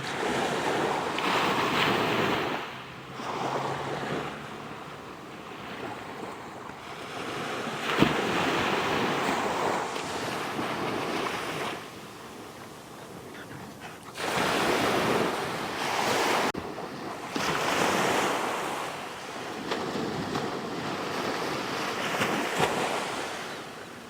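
Ocean surf: waves breaking and washing up the shore in repeated swells that rise and fade every few seconds, with some wind on the microphone.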